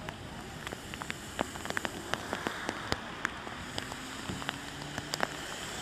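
Rain falling steadily, with many individual drops tapping sharply and irregularly close by.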